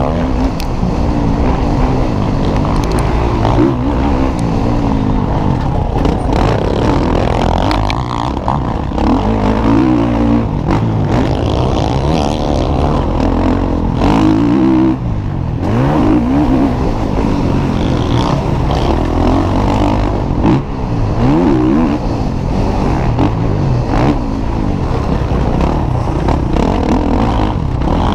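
Motocross bikes racing, engines revving hard with the pitch climbing and dropping again and again as they accelerate and shift.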